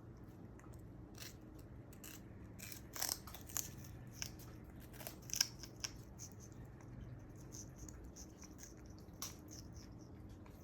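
African grey parrot biting and crunching sugarcane with its beak: irregular sharp snaps and crackles, coming thickest a few seconds in.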